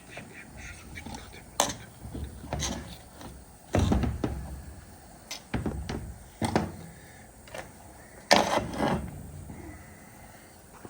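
Irregular knocks and clinks of metal parts and hand tools being handled while a truck steering column is taken apart, with two louder clattering knocks about four seconds and eight seconds in.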